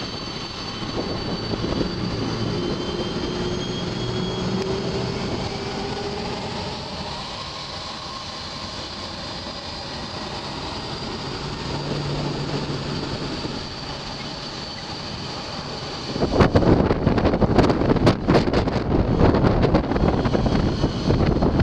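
Jet engines of a departing Boeing 747 running at high power with a steady whine. About 16 seconds in, the jet blast arrives and heavy gusts of wind batter the microphone.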